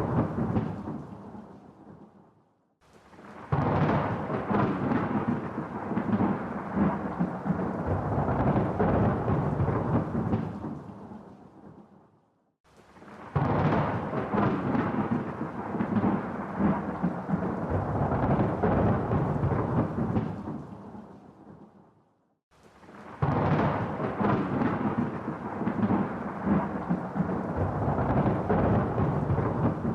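Rolling thunder with rain, in three stretches of about ten seconds each. Each comes in abruptly, rumbles, then fades away, with a brief near-silent gap before the next.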